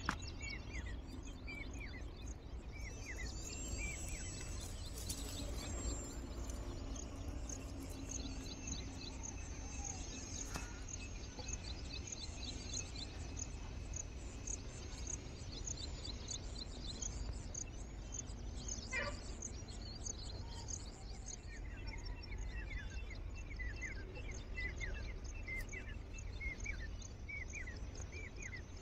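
Birds chirping and calling over and over in quick high notes, with one long high whistled call a few seconds in. Under it runs a steady low rumble, and there are two faint clicks.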